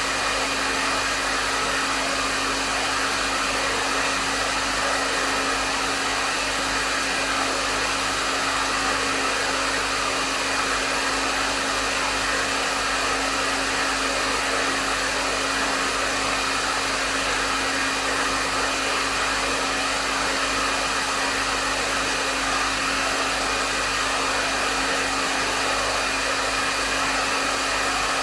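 Hair dryer running steadily: a constant rush of air over the motor's steady hum, with no change in speed.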